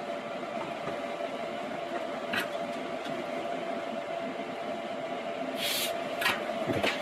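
Steady mechanical hum with one constant tone, likely from bench equipment. Brief rustles and clicks from parts being handled come once about two and a half seconds in, and several times in the last second and a half.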